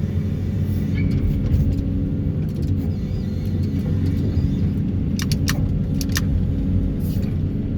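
Excavator working a vibro hammer to pull steel sheet piles: a steady low engine and hydraulic hum, with several sharp clicks between about five and seven seconds in.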